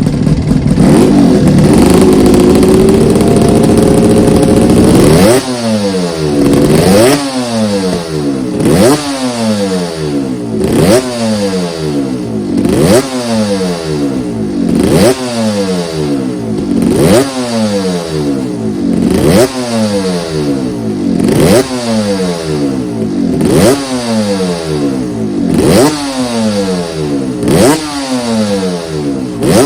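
Yamaha RD 350 YPVS two-stroke parallel twin on Micron expansion-chamber exhausts, held at raised revs for about five seconds, then blipped over and over, roughly once every two seconds. Each blip jumps up sharply and falls back.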